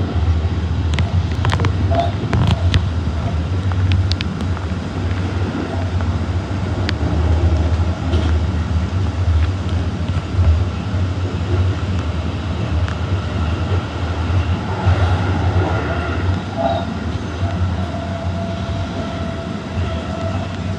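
Tokyu Toyoko Line electric commuter train running on the rails, heard from inside the front car: a steady low rumble, with a few sharp clicks in the first few seconds and a faint steady whine in the second half.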